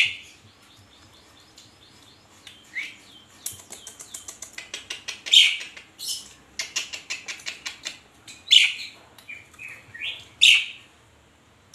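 Asian pied starling singing: loud, harsh high calls every couple of seconds, with rapid runs of clicking chatter between them.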